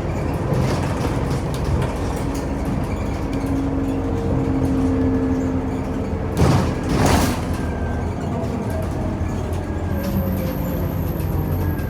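Interior of a Scania OmniCity city bus under way: steady engine and drivetrain rumble with a humming whine. There is a short loud burst of noise about six and a half seconds in, and the whine falls in pitch near the end as the bus slows.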